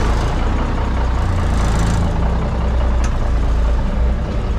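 Cummins diesel engine of a Brockway truck idling steadily with a deep rumble, running again after sitting dormant for decades. A brief hiss comes about one and a half seconds in, and a sharp click about three seconds in.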